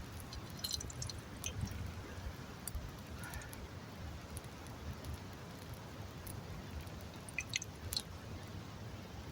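Campfire burning, with a low rumble and scattered sharp crackles and pops, a few louder ones near the start and near the end.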